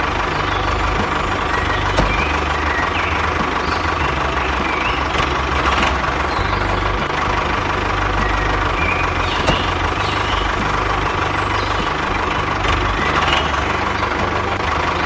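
Truck engine idling steadily, with a steady whine above it and two sharp clicks, about two seconds in and again past the middle.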